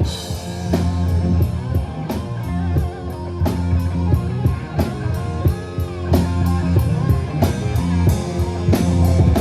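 Southern rock music with electric guitar and a steady drum beat, an instrumental passage between sung lines.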